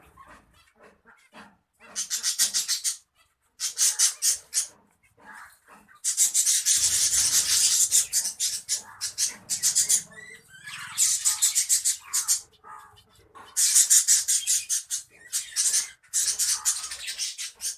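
Finches calling in bursts of rapid, buzzy chattering, each burst a second or two long, with short pauses between them.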